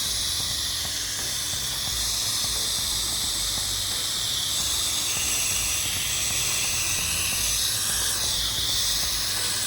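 Pressure washer wand spraying soap solution onto a house through a 1.8 downstream injector: a steady, even hiss of spray, with a low rumble underneath.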